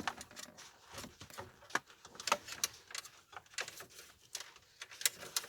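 Scattered light clicks and taps, irregular and about a dozen in all, from radio-install parts being handled: wire connectors, the interface module and plastic dash pieces.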